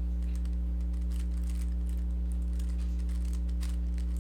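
Rubik's cube being turned quickly, its plastic layers clicking in quick irregular runs as algorithms are executed. A steady low electrical hum runs underneath and is the loudest part.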